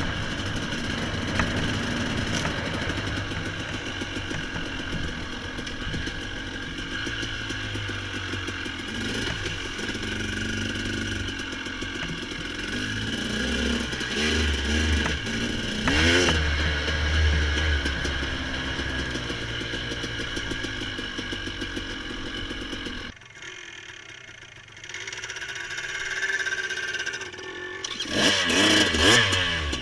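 A vehicle engine running and revving up and down. It drops to a quieter idle about three-quarters of the way through, then revs up again near the end.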